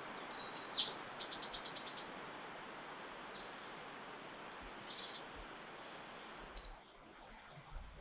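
A small bird chirping in short high notes: a couple of chirps, then a quick run of about eight notes about a second in, and single chirps spaced out after, over a steady background hiss that fades near the end.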